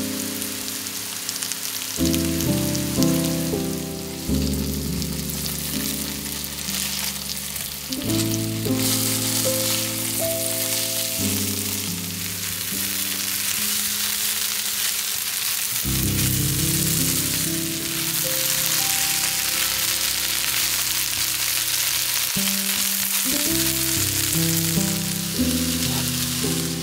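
Food frying in oil in a pan: a steady sizzle that grows stronger about a third of the way in. Background music with changing notes plays underneath.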